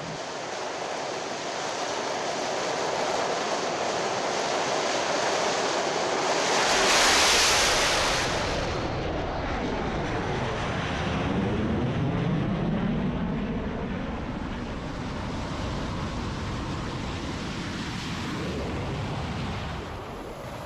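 Jet aircraft noise, a steady rushing that swells to its loudest about seven seconds in and then sweeps past and slowly fades.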